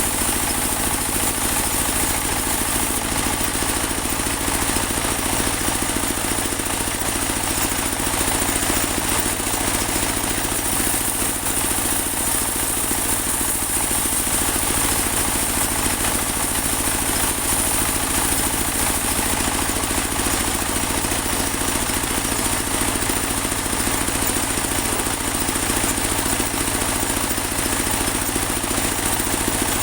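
Portable band sawmill running steadily: an even engine drone with a constant high whine over it, unchanging throughout.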